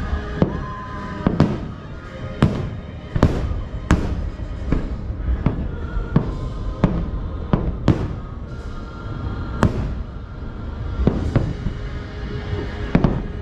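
Fireworks shells bursting in a steady series of sharp booms, about one a second, with music playing underneath.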